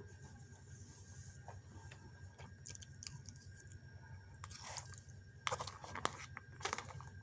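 A person chewing food close to the microphone: quiet for the first few seconds, then a handful of short, crisp chewing and crunching sounds in the last two and a half seconds.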